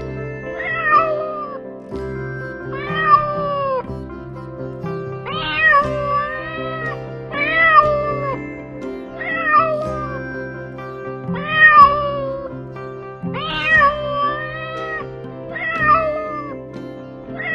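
A Somali cat meowing again and again, about nine meows spaced roughly two seconds apart, each rising then falling in pitch, over soft background music.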